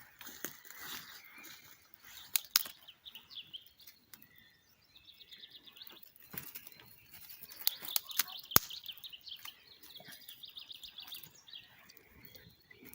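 Small songbirds singing: several quick trills of high chirps, one after another. A few sharp cracks stand out, two about two and a half seconds in and one louder one past the middle.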